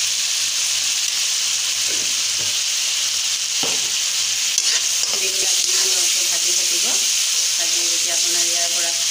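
Chopped tomatoes and salt sizzling as they fry in oil in a metal kadai. A metal slotted spoon knocks and scrapes against the pan, stirring steadily through the second half.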